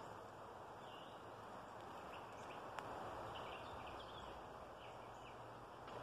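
Woodland ambience: a steady low hiss with short bird chirps now and then, and one sharp click a little before the middle.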